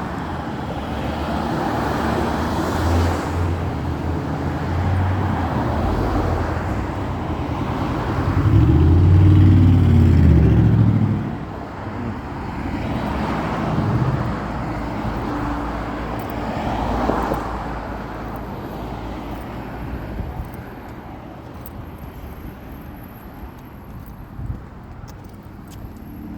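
Road traffic: a steady wash of passing cars, with one louder vehicle passing about eight to eleven seconds in.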